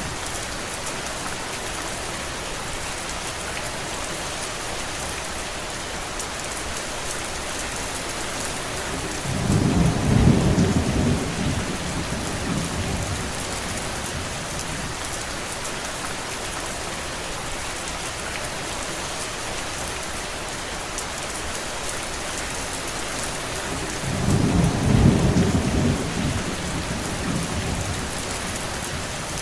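Steady rain falling, with two low rumbles that swell and fade over a few seconds each, one about a third of the way in and one near the end.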